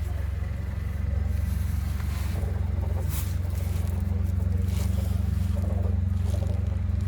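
A car engine running steadily, a low even hum, with a few brief rustling or scraping sounds over it.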